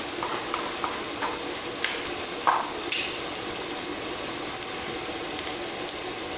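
Vegetables sizzling in an enameled cast iron skillet as they are stirred, with a utensil scraping and knocking against the pan a few times in the first three seconds, the loudest knock about two and a half seconds in.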